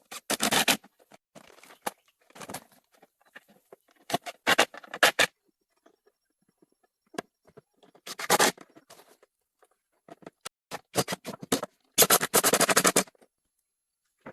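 Short bursts of rapid scratching and scraping, about six in all, with silence between them.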